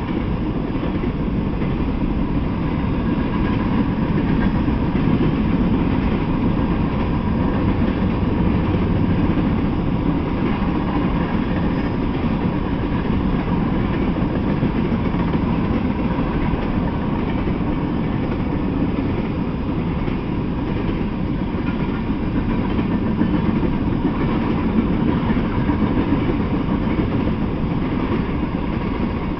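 Freight train of covered hopper cars rolling past, its steel wheels running on the rails in a steady, even rolling noise that sits mostly in the low range.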